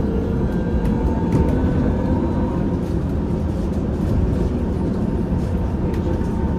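Inside a moving VMZ Avangard trolleybus: the electric traction drive whines in thin steady tones over a low road rumble. A few short clicks and rattles come through.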